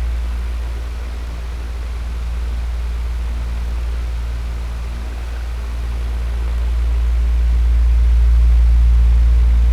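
Electric fan running steadily: a low motor hum under an even rush of air, its loudness slowly sagging and swelling.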